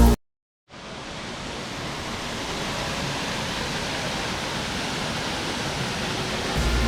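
Triberg waterfall's water rushing steadily, fading in after a moment of silence.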